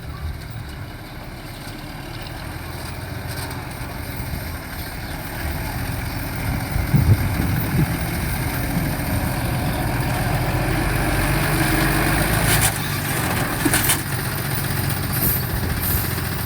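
Heavy diesel engine of earthmoving equipment running, growing gradually louder, with a couple of short sharp noises in the second half.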